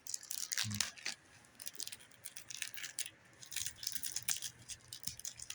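Magic: The Gathering welcome deck packaging being opened by hand: cardboard and wrapper rustling and crinkling, with many small clicks and ticks.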